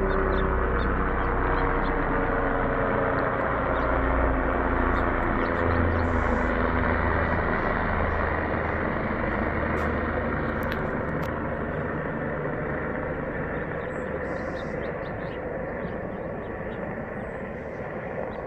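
Steady rumbling noise of vehicles, with a low hum that fades out over the first few seconds.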